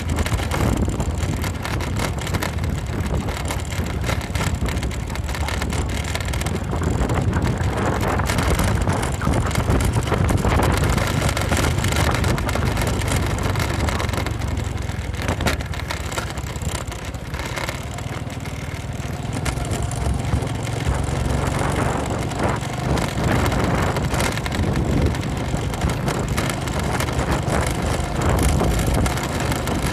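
Honda Supra X motorcycle running while ridden over a rough dirt road, with steady engine hum and wind on the microphone. Frequent short knocks and rattles run through it.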